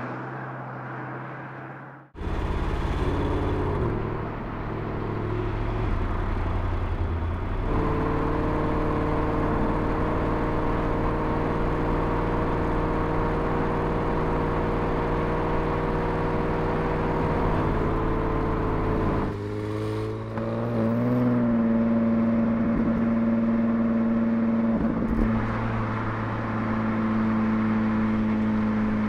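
Porsche Panamera Turbo S E-Hybrid Sport Turismo's twin-turbo V8 running while the car drives at a steady pace. The engine note holds steady for long stretches and changes suddenly about 2, 8 and 19 seconds in, with a brief wobble in pitch just after the last change.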